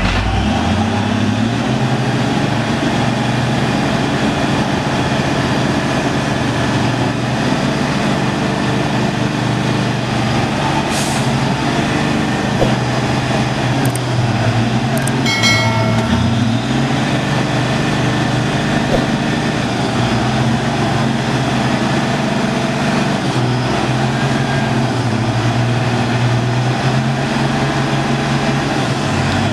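Truck engine running steadily under load, its pitch climbing at the start and dipping briefly about halfway. A short high-pitched tone sounds about halfway through.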